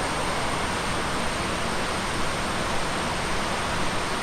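Steady rush of a waterfall close by, water pouring over rock without a break.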